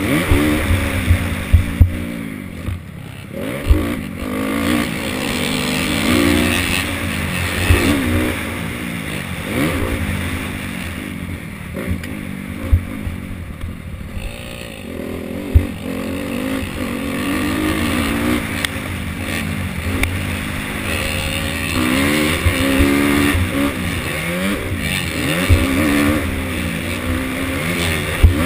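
Motocross dirt-bike engines on the track, revving up and dropping off again and again through gear changes and throttle blips, with a few sharp thumps.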